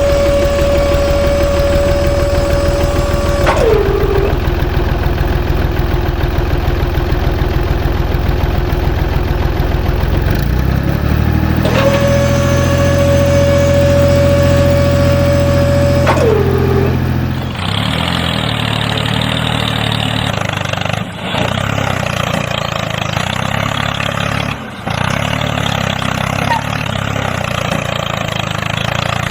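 Small motor of a miniature DIY model construction machine running. A steady whine winds down and stops twice, over a low engine-like hum. From about two-thirds of the way in, a rougher mechanical rattle follows.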